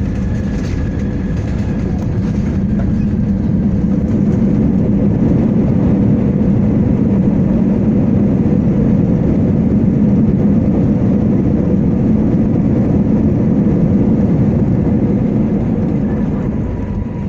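Airbus A321 jet engines in reverse thrust on the landing rollout, a loud rumble heard from inside the cabin. It builds after a few seconds, holds, then eases off near the end as the engines spool down.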